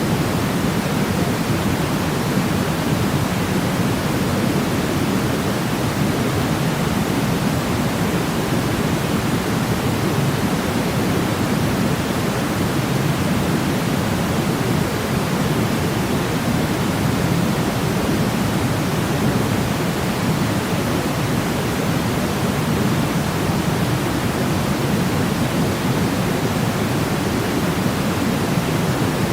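Steady synthetic noise of the pink-noise kind, a constant hiss weighted toward the low end, used as a sleep sound for babies.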